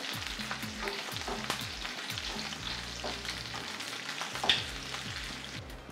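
Sausage pieces sizzling in hot oil in a nonstick frying pan, with scattered pops and a wooden spoon stirring and scraping them around the pan. There is a louder click about four and a half seconds in.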